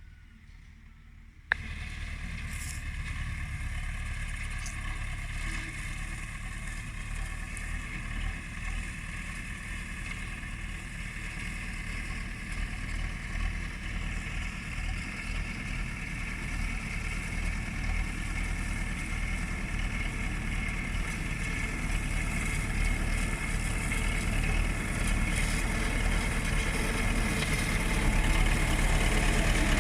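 LTZ-60 tractor running with a drum mower, a steady engine sound that starts abruptly about a second and a half in and grows gradually louder toward the end.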